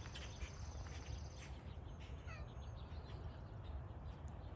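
Outdoor ambience with birds: a high, pulsing trill that stops about a second and a half in, and a short falling chirp about two seconds in, over a low rumble of wind on the microphone.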